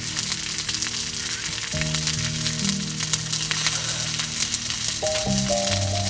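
Food sizzling and spitting as it fries in hot fat, a dense crackling hiss.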